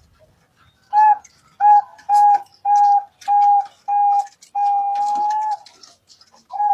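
Zebra dove (perkutut) cooing: a run of short, clear, even-pitched notes about half a second apart, then one longer held note and a last short note near the end.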